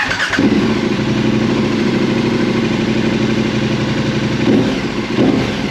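KTM 1290 Super Adventure's V-twin engine starting up at once on a new lithium battery and settling into a steady idle, with two small rises in loudness near the end.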